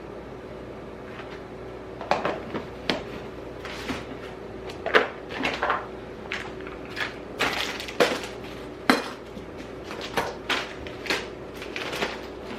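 Kitchen clatter: an irregular run of sharp knocks and clinks of dishes and cupboard doors as things are handled and put away, starting about two seconds in.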